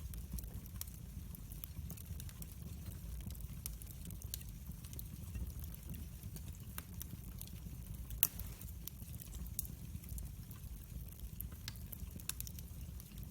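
Wood fire burning in a fireplace, with a low rumble under scattered crackles and a sharper pop about eight seconds in.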